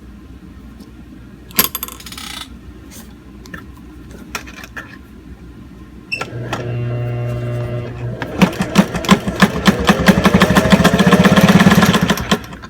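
Old Singer 404 Slant-O-Matic sewing machine sewing through six layers of clear vinyl and Sunbrella canvas. After a few handling clicks, its motor starts humming about six seconds in, then the needle begins to stitch, a fast clatter that speeds up and stops shortly before the end.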